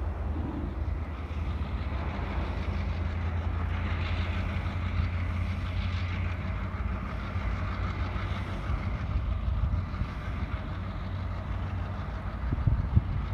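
Utah Railway GP38-3 diesel locomotive, an EMD two-stroke, running with a steady low drone as it pulls its train through the yard, with the hiss of wheels on rail swelling in the middle. A few sharp bumps near the end.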